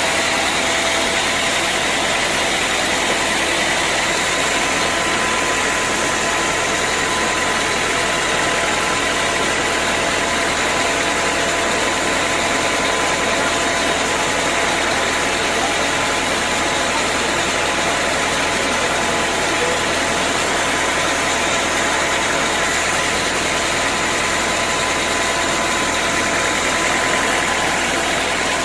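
Sawmill machinery running steadily: a constant loud mechanical noise with a fixed high whine that does not change in pitch or level.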